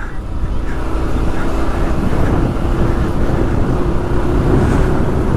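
Motorcycle on the move: a steady engine hum under a loud rush of wind and road noise on the microphone.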